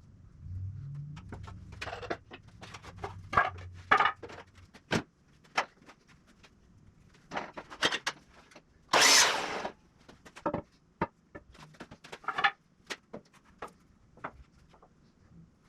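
Knocks and clatter of lumber and tools being handled during woodworking, with a low hum in the first few seconds and one loud, short rushing noise about nine seconds in.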